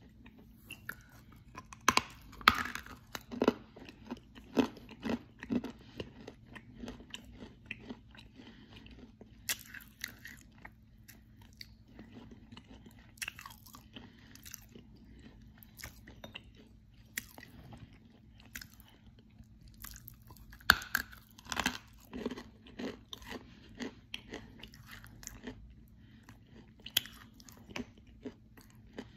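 A mouthful of hard edible chalk being chewed close to the microphone, with sharp crunches. The crunches come thick and fast in the first few seconds and again about two-thirds of the way through, with sparser chewing between.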